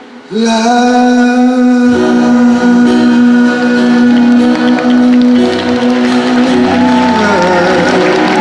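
A male singer and live band performing a ballad. The singer holds one long note from about half a second in, the band comes in fuller under it about two seconds in, and near the end the note bends and falls away, as in the closing of the song.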